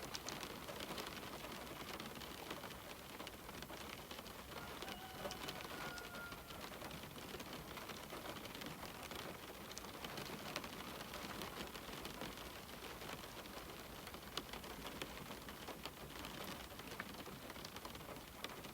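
Steady rain on a window: an even soft hiss dotted with many small, irregular drop ticks.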